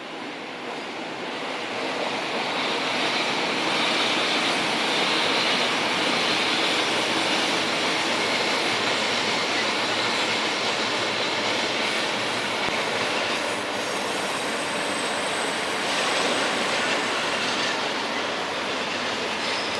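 A train running past on the rails. The noise builds over the first two seconds, then holds steady, with some high squealing from the wheels.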